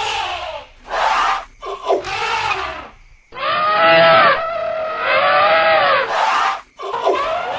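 Elephants trumpeting: a run of short, high, screaming calls, with one long trumpet about three seconds long in the middle, its pitch rising and then falling.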